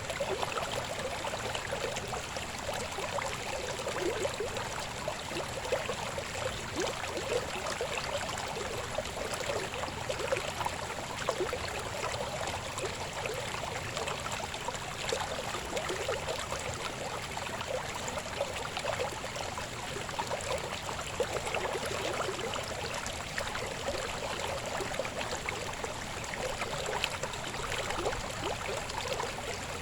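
Shallow river babbling steadily over rocks, a continuous rush of water with small gurgles and splashes.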